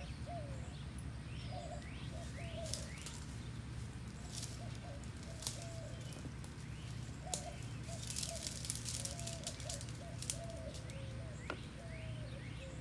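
Birds chirping repeatedly in short rising calls and wavering notes over a steady low hum, with a few brief clicks and a spell of rustling hiss in the second half.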